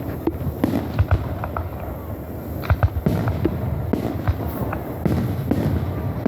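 Fireworks going off: many irregular, sharp cracks and pops over a continuous low rumble of bursts.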